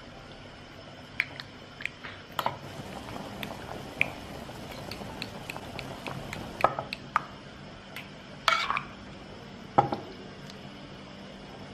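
Liquid pouring for a few seconds, with scattered light clinks and knocks of dishes and household items being handled.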